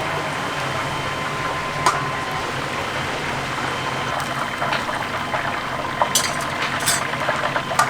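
Hot oil sizzling and bubbling in a deep fryer, a steady frying hiss with scattered crackles and a few sharper pops, over a faint steady hum.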